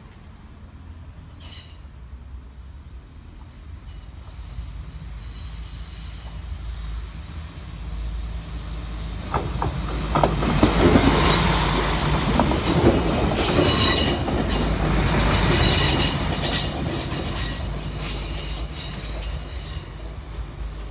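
A heavy vehicle passing: a low rumble swells to a peak in the middle and then fades, with high-pitched metallic squealing early on and again near the loudest part.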